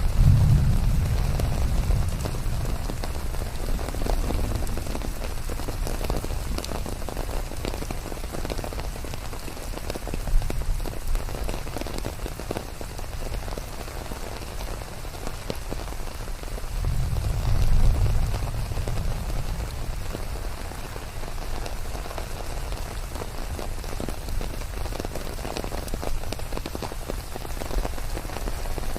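Steady rain falling, with many individual drops heard hitting a surface. A low rumble swells briefly near the start and again about 17 seconds in.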